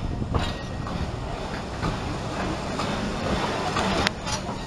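Narrow-gauge steam train running on the track: a steady rumble of wheels on rail, with one sharp click about four seconds in.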